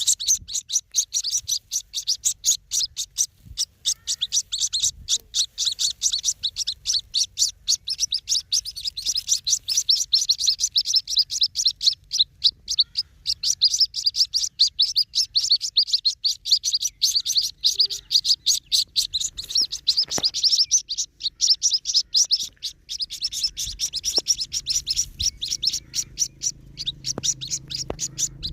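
Water hen chicks cheeping: a continuous stream of rapid, high-pitched peeps, several a second.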